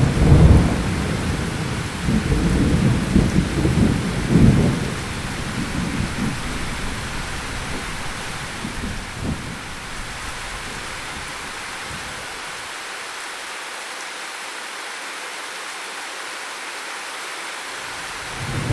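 Thunderstorm: a roll of thunder rumbling over steady rain, loudest in the first few seconds and dying away by about halfway, leaving only the even hiss of the rain, before a new roll of thunder starts right at the end.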